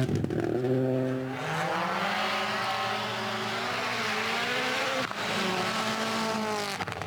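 Rally car engine running hard on a stage, its note climbing and dropping as it changes gear, with a short break about five seconds in.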